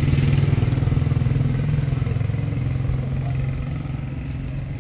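A motor vehicle's engine running with a steady low hum that steps up in pitch at the start and slowly fades.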